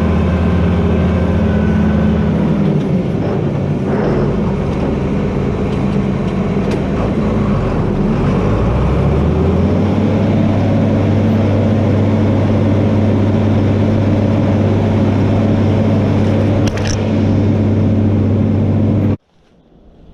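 John Deere 4320 tractor's six-cylinder diesel engine running steadily, its pitch dropping a couple of seconds in and picking back up about ten seconds in. The sound cuts off abruptly near the end.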